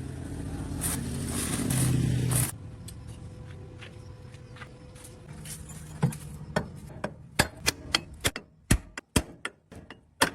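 Metalwork on a steel excavator bucket: a dense, noisy tool sound with a low hum for about two and a half seconds stops suddenly, then irregular sharp metal knocks come more and more often toward the end.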